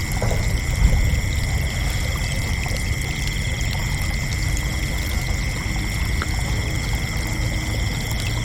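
Crickets chirping in a continuous high trill, several steady pitched tones at once, over a steady low rumble.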